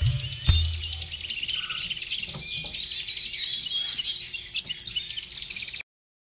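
Birds chirping in a rapid, dense chatter, with faint music beneath; the sound cuts off suddenly near the end.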